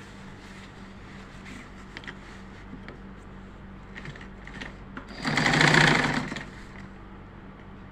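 Butterfly sewing machine stitching in one short, rapid burst of about a second and a half, some five seconds in, after a few light clicks of handling.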